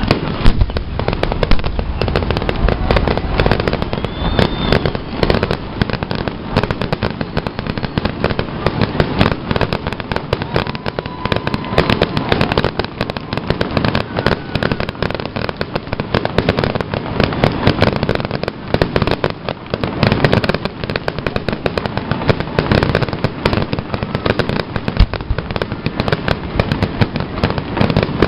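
Aerial fireworks display: a loud, unbroken barrage of bangs and rapid crackling pops.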